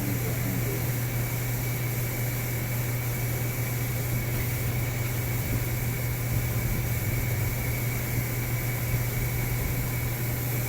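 Steady low hum of a powered-up Miyano BNE-64SY2 CNC lathe, with a thin steady high whine above it. The turrets' ball-screw axis moves are quiet under it.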